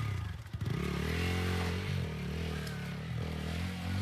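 Motorcycle engine revving up and down under load in second gear, its pitch rising and falling, with a brief drop in level about half a second in.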